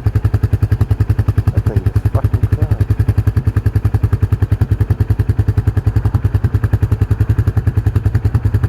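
An engine running steadily, with an even throb of about eight pulses a second.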